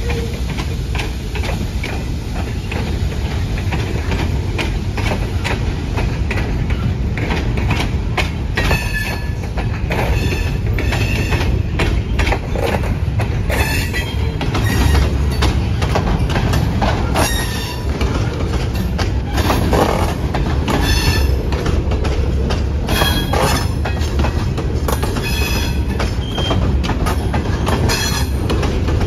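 Loaded Herzog ballast cars rolling slowly past close by: a steady low rumble of steel wheels on rail, with repeated clicks and clanks as wheels cross rail joints. From about eight seconds in come short, high wheel squeals, again and again.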